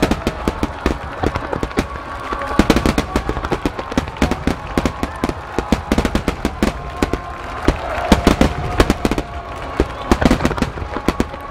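Large aerial fireworks bursting in a dense barrage: many sharp bangs and crackles a second, with no let-up.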